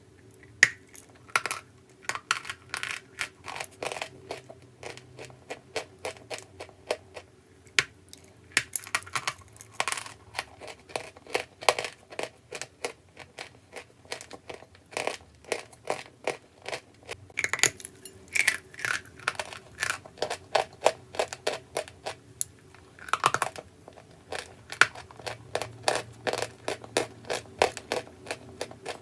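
Crisp crunching of dry, brittle chalk, a rapid irregular run of small sharp cracks and snaps. It comes in clusters with brief lulls, and is loudest a little past halfway and again about three-quarters through.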